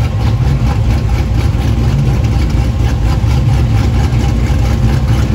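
Steady low rumble of a classic car's V8 at idle as it creeps past at walking pace, most likely the C3 Chevrolet Corvette rolling by close up.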